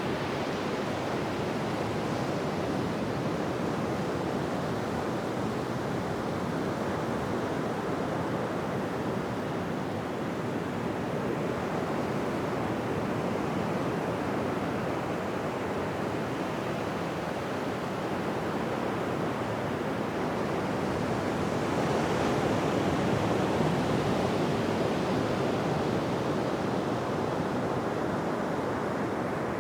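Ocean waves washing onto a beach in a steady surf, with one wave breaking louder about two-thirds of the way through.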